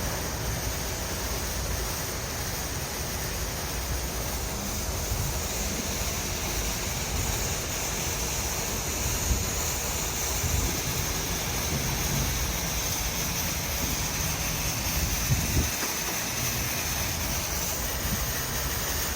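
Automatic gantry car wash running: a steady rush of water spraying onto the car, with a low machine rumble underneath.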